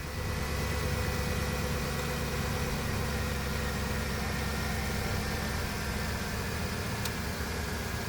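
GM 6.2-litre V8 in a 2007–2014 Escalade/Yukon/Tahoe starting and then idling steadily, with a single sharp click about seven seconds in.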